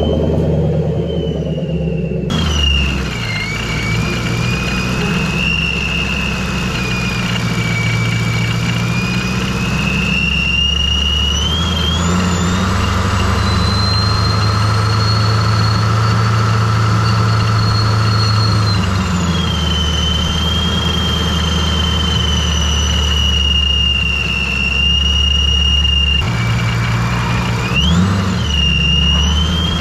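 Procharger centrifugal supercharger on a 2004 Mustang Mach 1's 4.6-litre V8 giving a loud high whine over the engine's low rumble. The whine's pitch rises and falls with engine speed: it sits higher for several seconds near the middle, drops back, and swings quickly up and down near the end. The sound changes abruptly about two seconds in.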